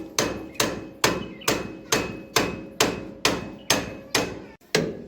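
Hammer striking metal in a steady run of blows, a little over two a second, each with a brief metallic ring.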